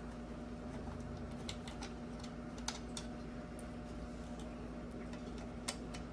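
Scattered light clicks and taps of small plastic headlight parts being handled while the headlight's adjustment motor is being taken out, over a steady low hum.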